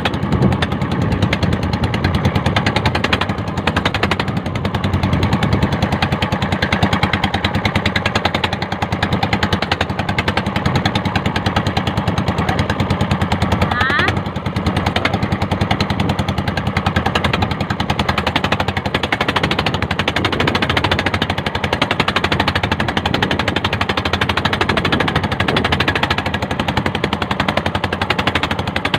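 Unmuffled engine of a motorized outrigger boat (bangka) running steadily at cruising speed, a rapid continuous popping exhaust.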